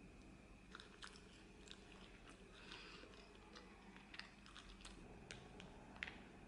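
Faint close-up chewing and crunching of crusty bread, with small crisp clicks scattered throughout and one sharper click about six seconds in.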